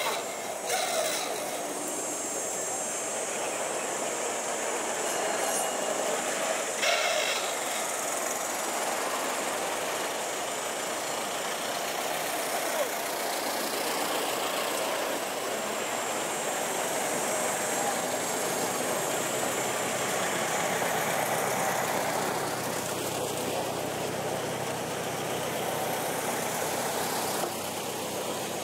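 Engines of vintage cars running at low speed as the cars creep past one after another: a steady mechanical noise, with a low engine hum coming in about two-thirds of the way through.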